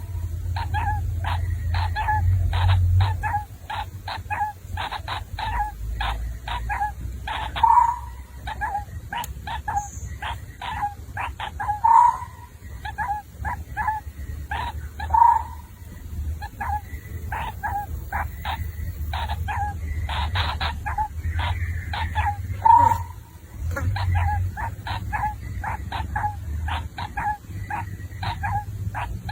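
Baby bird calling to be fed: short chirps repeated a few times a second, with a louder call every three or four seconds, over a low rumble.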